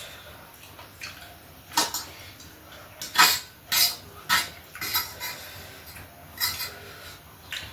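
Cutlery clinking against dishes, a scatter of short sharp clinks at irregular intervals while food is eaten.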